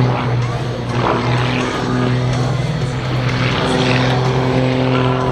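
Propeller drone of a Game Composites GB1 GameBird aerobatic plane's six-cylinder Lycoming engine, held at a steady pitch with added overtones coming in about three seconds in.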